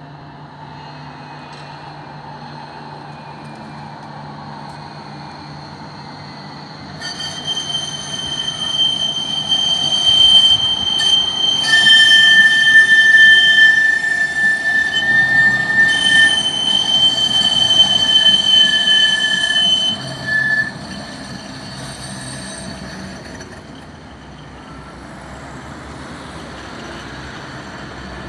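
Tram wheels squealing loudly as a rail vehicle passes. Rolling noise builds about seven seconds in, then a piercing high-pitched squeal of several steady tones dominates for about ten seconds and stops abruptly, leaving a fading rumble.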